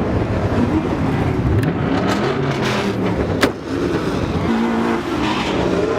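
Car engines running and revving, their pitch rising and falling, with a single sharp crack about three and a half seconds in.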